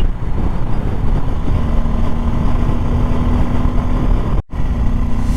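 Motorcycle ride: a steady rush of wind and road noise with an even engine hum. The sound cuts out for a split second near the end.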